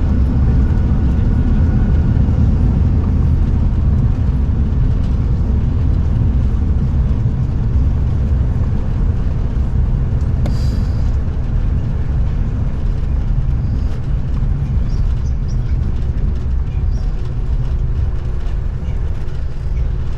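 Steady low rumble of a vehicle in motion, slowly easing off.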